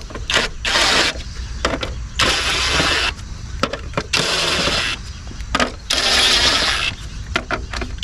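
Impact wrench run on its lowest setting in four short bursts, each under a second, spinning plastic lug-nut caps onto a wheel, with light clinks of the socket between bursts.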